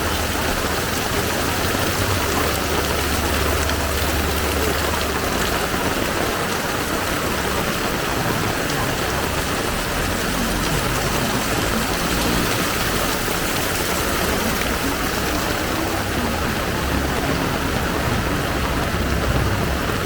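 Heavy tropical downpour: a steady, dense hiss of rain. A low rumble sits under it for the first five seconds or so.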